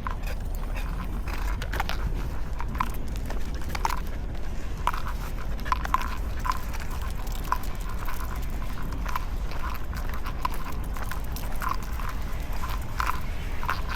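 Footsteps on pavement during a dog walk: light, irregular clicks and taps, about one or two a second, over a steady low rumble.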